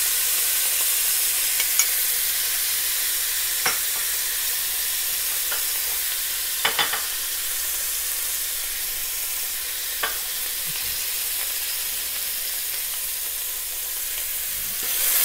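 Epis seasoning paste sizzling in a thin layer of hot olive oil in a pan: a steady high hiss with a few sharp pops, getting louder just before the end.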